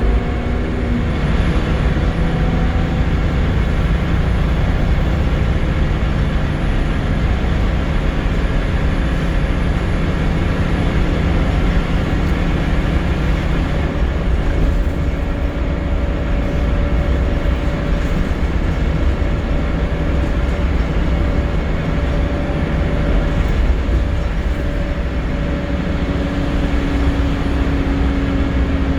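Scania L94UB Wright Solar single-deck bus on the move, heard from on board: a steady engine drone over road and body noise, its note shifting slightly around the middle and again near the end.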